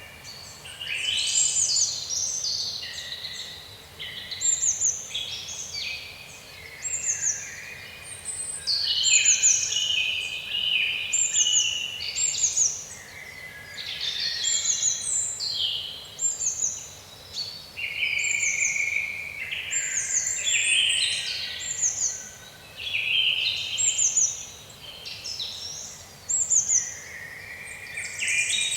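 Several woodland songbirds singing at once: a short, high falling note repeated about every second, over fuller, busier song phrases from other birds.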